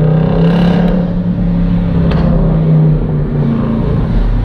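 Jeep Grand Cherokee SRT engine and muffler-deleted exhaust running loud under way, with a steady engine note that dips briefly about three seconds in.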